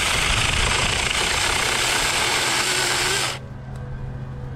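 Battery-powered Saker mini chainsaw running as it cuts through a tree limb, a steady motor-and-chain noise that stops suddenly a little over three seconds in.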